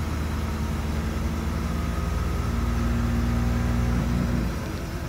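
Cadillac Calais V8 with Holley fuel injection idling steadily just after a cold start. A steady hum runs over the idle and cuts off about four and a half seconds in, leaving the engine a little quieter.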